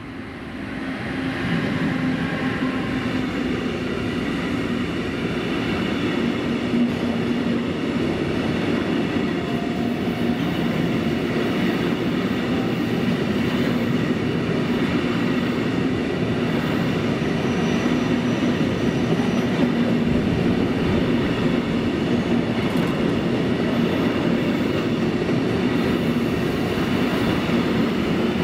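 Freight train rolling past at close range: a WECO Rail Siemens Vectron electric locomotive goes by, then a long string of intermodal container and trailer wagons, with a steady rumble of wheels on rail. The sound grows louder over the first couple of seconds and then holds steady.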